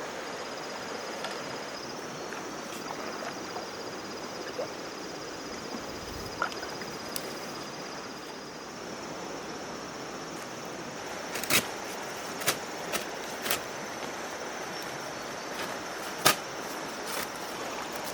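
Steady outdoor background with an insect trilling at a high, even pitch, and a handful of sharp knocks or taps, the loudest about eleven and sixteen seconds in.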